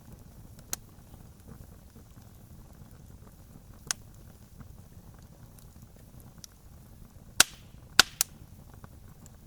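Campfire crackling: scattered sharp pops from burning wood over a low steady rumble, the three loudest pops coming close together near the end.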